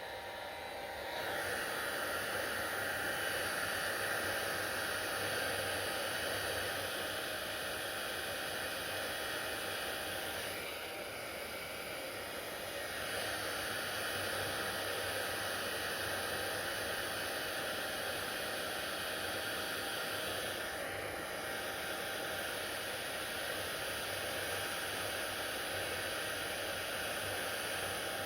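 Electric hair dryer running with a steady airy hiss. It gets louder about a second in, dips for a couple of seconds around the middle, then holds steady again.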